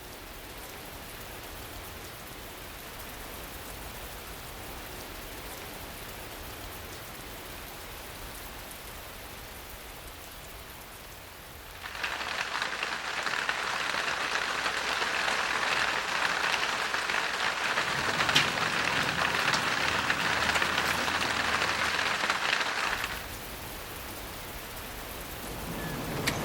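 Steady rain falling. About twelve seconds in it cuts abruptly to louder, closer rain with sharp individual drop ticks, then drops back to a softer, steady rain about eleven seconds later.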